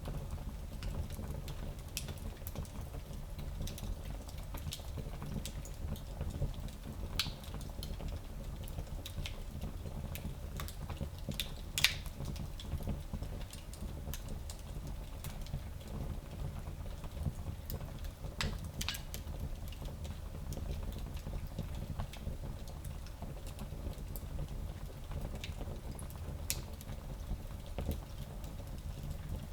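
Fire in a small fireplace crackling over a steady low rumble, with scattered pops and one sharper pop about twelve seconds in.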